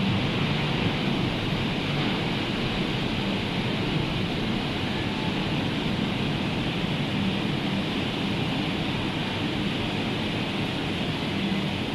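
Rough sea surf and rain blending into one steady, even rushing noise, with no separate wave breaks standing out.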